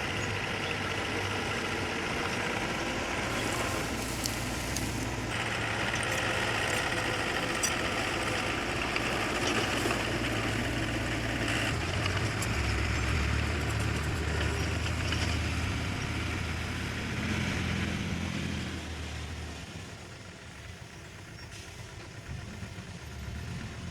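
Diesel engine of earthmoving machinery running steadily, its note shifting lower about halfway through, then quieter near the end.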